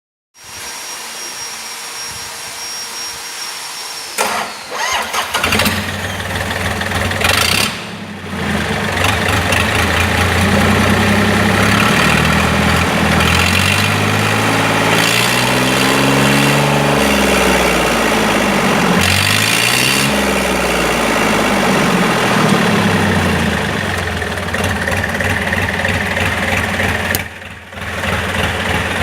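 Yanmar 3JH30A three-cylinder marine diesel cranked and starting about four to five seconds in, then running. It is revved up and back down a couple of times in the middle before settling to a steady run.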